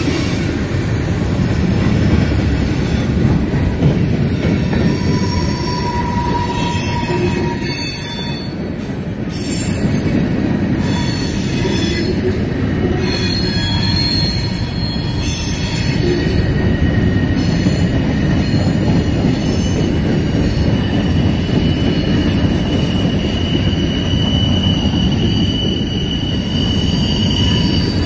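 Freight train cars rolling past at close range: a steady rumble of steel wheels on rail, with thin high wheel squeals coming and going, a longer one near the end.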